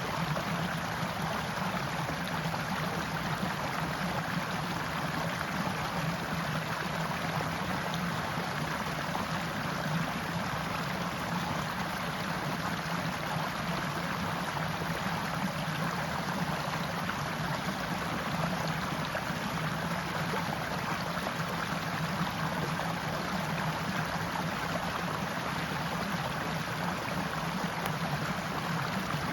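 Forest stream flowing steadily, a continuous rushing and burbling of water over rocks.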